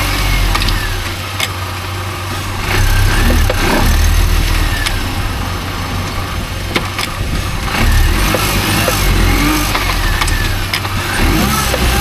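Mini Cooper S R52 running with a low rumble, and a few sharp knocks at irregular intervals from the front left corner, which the owner suspects come from a worn driveshaft. Faint creaks or squeaks waver above them.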